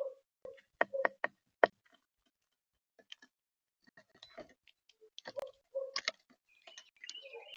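Irregular sharp taps and clicks, as of birds pecking seed and hopping on a bird feeder close to the microphone, with a short chirping call near the end.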